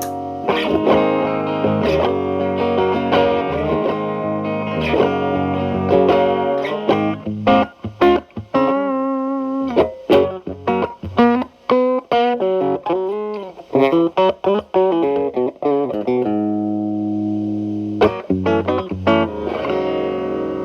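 Telecaster electric guitar played through an MI Audio Crunch Box distortion pedal at maximum gain, with the guitar's volume rolled back to clean up the tone, into a Marshall Valvestate's clean channel. It plays ringing chords, then short choppy notes in the middle, a held chord about two-thirds of the way through, and a few more notes near the end.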